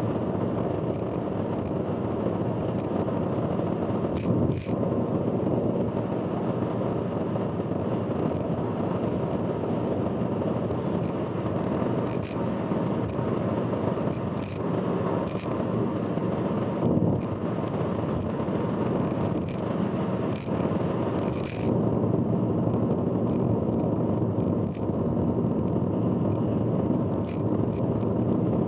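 Steady road noise from a car driving on an expressway, heard from inside, with scattered sharp clicks and ticks through it.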